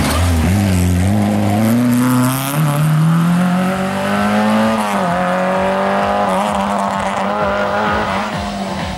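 Rally car engine revving hard through the gears: the pitch climbs and drops at the gear changes about two and a half and five seconds in, then holds steady.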